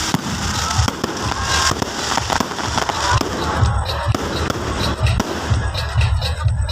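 Fireworks display: a rapid, continuous string of booms and sharp bangs from aerial shells bursting one after another, with a crackling haze in the first half.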